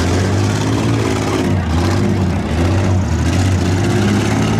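Engines of demolition derby minivans and cars running under load, a loud, steady low drone with noise over it.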